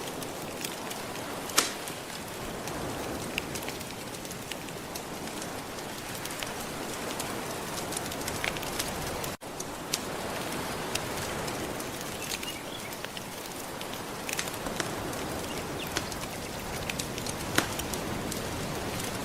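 Wood fire crackling with scattered sharp pops over a steady wash of gentle ocean waves. The sound drops out for a split second about halfway through.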